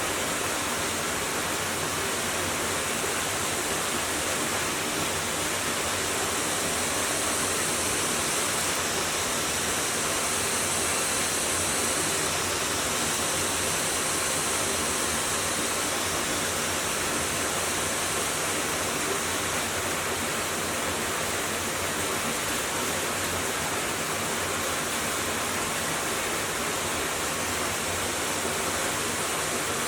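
A steady, unbroken rushing hiss, even across low and high pitches and unchanging throughout.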